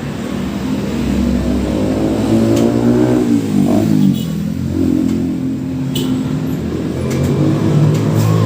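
A motor vehicle's engine running, its pitch dipping and climbing again about three to four seconds in as it changes speed.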